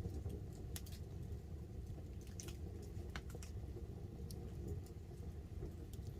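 Wood campfire burning under a tarp in light rain: a steady low rumble with scattered sharp crackles and ticks from the fire and from rain dripping.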